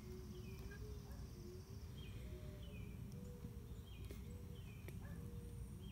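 Outdoor ambience: a bird repeating short falling chirps every half second to a second, over a low rumble and a faint wavering hum.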